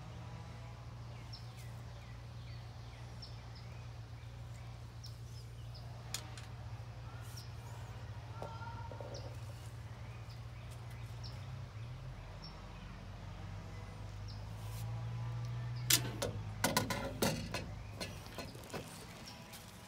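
Small birds chirping faintly, short high chirps spread through, over a steady low hum. Near the end comes a quick run of sharp clicks and knocks, the loudest sounds.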